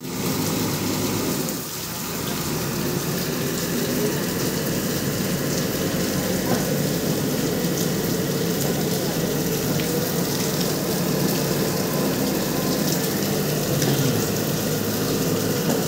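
Steady heavy rain, with the diesel engine of a JCB backhoe loader running underneath as it works.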